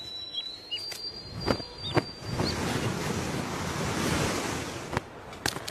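A gust of wind rushing through, swelling and then fading over about three seconds, with a few short high chirps and sharp clicks.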